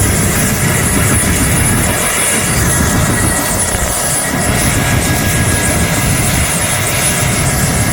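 AH-1F Cobra attack helicopter running steadily: its turboshaft engine and rotor make a dense, loud noise with a fluttering low end and a thin, steady high whine on top.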